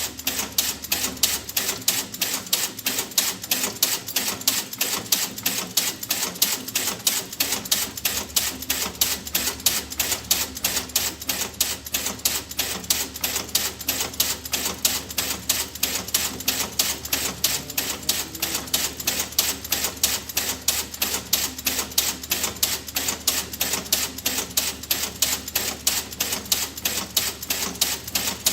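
A steady, rapid run of sharp hard clicks, several a second and even in rhythm, never pausing.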